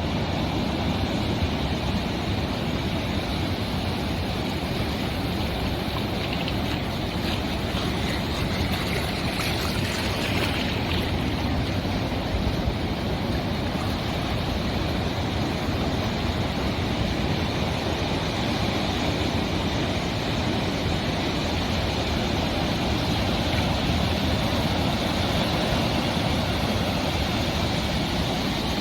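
Ocean surf washing steadily onto a sandy beach: a continuous rumble and hiss of breaking waves, with the hiss briefly brighter about a third of the way in.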